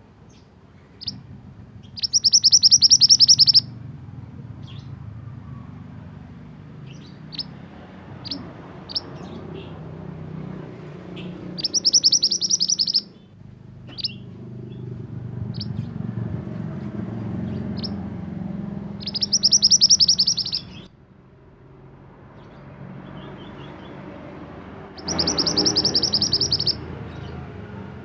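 A male mantenan songbird singing: four loud bursts of rapid, trilled high notes, each about a second and a half long, with short single chirps between them. A low steady rumble runs underneath.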